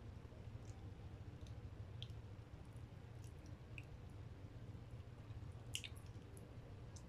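Faint wet mouth clicks and smacks of a person chewing chocolate cake, scattered unevenly with a sharper cluster near the end, over a steady low hum.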